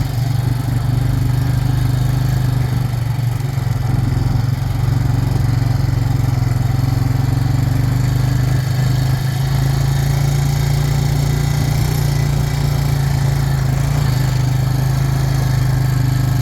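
Vehicle engine running at a steady speed while driving, a constant low drone.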